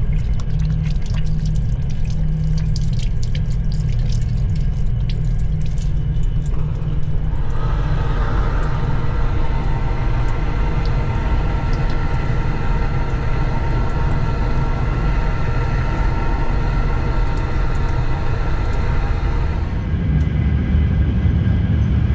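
Frecciarossa ETR 500 high-speed train running, heard inside the passenger coach: a steady low rumble, with faint ticking at first. About seven seconds in, a louder rushing noise with a thin whine joins in and lasts until near the end.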